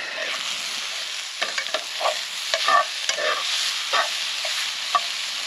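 Filet mignon frying in butter in a pan, a steady sizzle with irregular pops and spatters.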